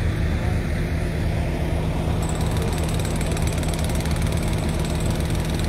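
An engine idling steadily: a low, even hum that holds one speed.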